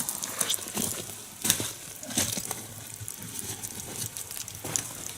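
Wood log fire crackling, with irregular sharp pops over a steady hiss.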